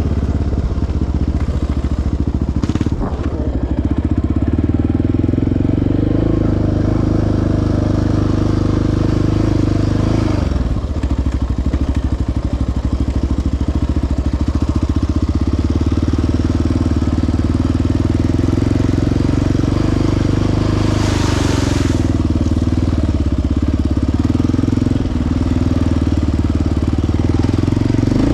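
Single-cylinder four-stroke ATV engine running on a trail ride, its pitch rising and falling several times as the throttle is opened and eased off. A brief hiss comes about two-thirds of the way through.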